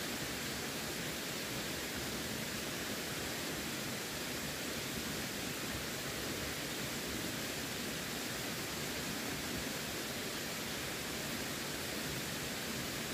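Running water rushing in a steady, even wash with no breaks or changes.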